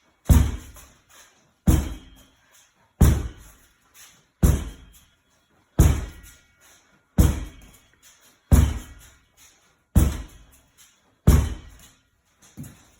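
Heavy medicine ball striking a wall in steady wall-ball repetitions: nine loud thuds, one about every one and a half seconds, each with a short ringing tail.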